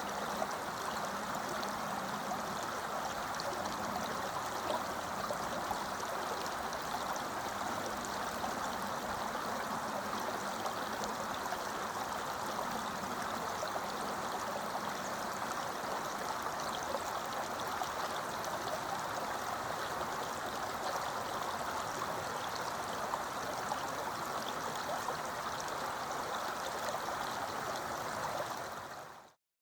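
Fast-flowing river water rushing and burbling over rocks, a steady wash that fades out near the end.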